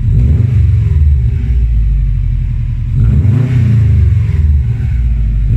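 Muffler-deleted exhaust of a 2015 Subaru WRX STI's turbocharged flat-four engine running with a deep low note. The revs rise and fall about three seconds in.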